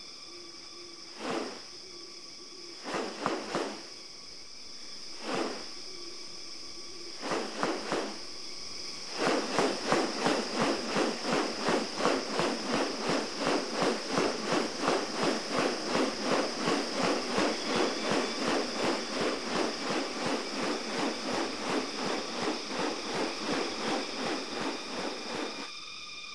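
Tropical rainforest insects drone in steady high tones. Over them come a few separate calls in the first eight seconds, then from about nine seconds a fast pulsing call repeating about twice a second, which stops shortly before the end.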